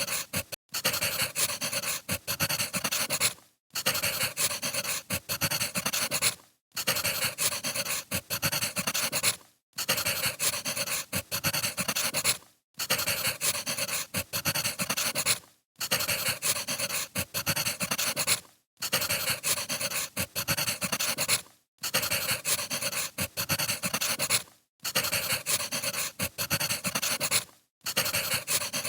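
Wood fire crackling and popping, played as a short loop that repeats about every three seconds with a brief drop-out between repeats.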